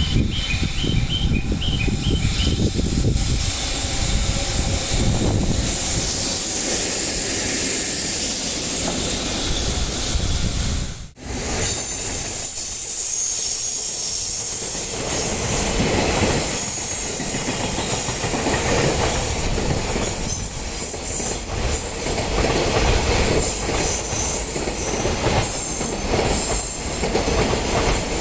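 Freight train running past on the rails, its wheels clattering over rail joints with a high, steady wheel squeal. The sound drops out abruptly for a moment about eleven seconds in, then the same train noise resumes.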